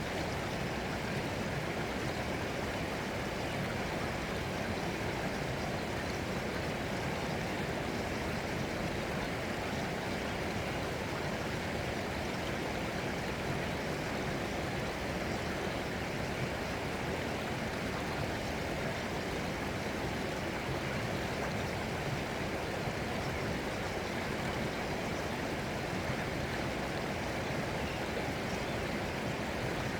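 Flowing water running steadily and evenly, with no breaks or changes.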